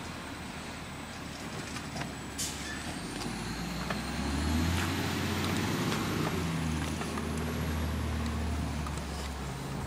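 Garbage truck's diesel engine running, its low drone swelling about four seconds in and easing off near the end, with a brief hiss about two and a half seconds in.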